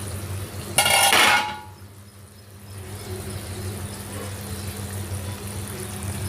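A pot lid lifted off a cooking chicken curry with a short ringing clatter about a second in, followed by the curry's steady low sizzle in the open pot.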